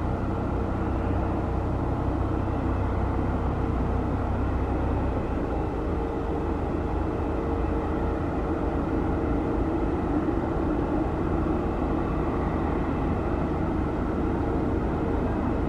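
Steady jet noise from an Airbus A330neo's Rolls-Royce Trent 7000 turbofans running, with a steady hum and a deep rumble that eases about five seconds in.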